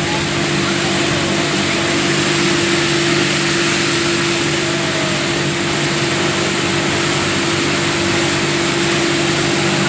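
Motorboat engine running steadily under way, a constant drone over a steady rush of wind and water.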